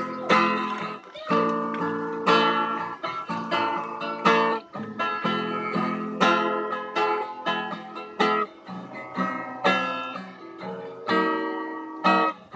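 Acoustic guitar intro, plucked and strummed chords in a steady rhythm.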